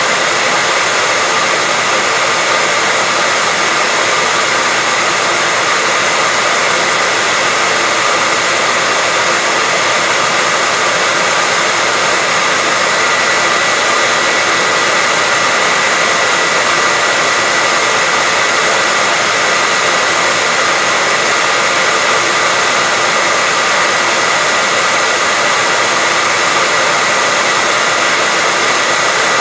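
Electric hair dryer running steadily, a loud even whoosh of air with a steady high whine from the motor and fan.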